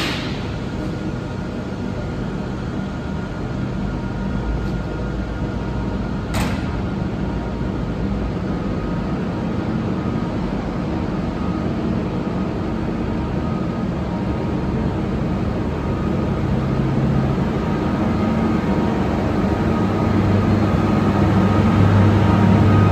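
A train running at a station platform: a steady mechanical hum with a few faint steady tones, slowly growing louder. A single sharp click about six seconds in.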